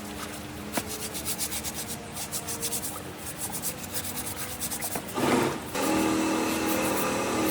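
Repeated hand rubbing strokes on a part, like sanding or filing, about three or four a second. About five seconds in, a small electric motor starts and runs steadily with a hum.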